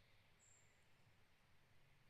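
Very faint forest ambience, a soft even hiss, with one short, high, thin bird chirp about half a second in.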